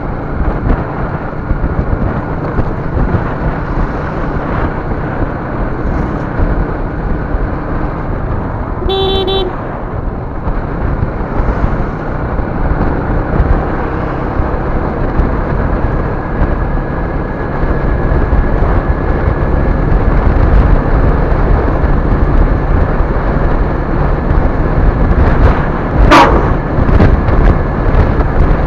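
Steady road and engine noise of a moving vehicle, growing louder after about 17 s. About 9 s in, a vehicle horn gives one short honk, and near the end there is a brief sharp noise.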